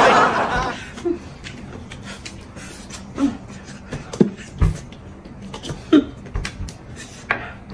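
Close-miked eating sounds: someone biting into and chewing a roast chicken leg, with scattered wet clicks and smacks. A short rush of noise fills the first second.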